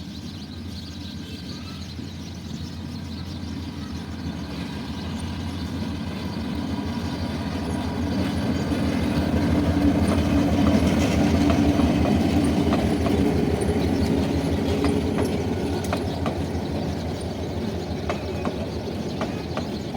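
The Mahuya Commuter train passing by, its rumble building to a peak about halfway through and then fading. Wheels clack over rail joints in the second half.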